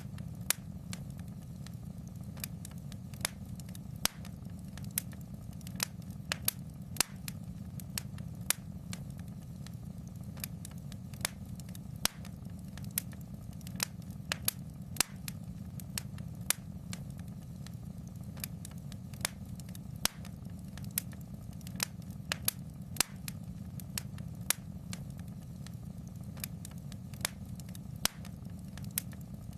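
A fire crackling in a fireplace: irregular sharp pops and snaps, about two a second, over a steady low rumble.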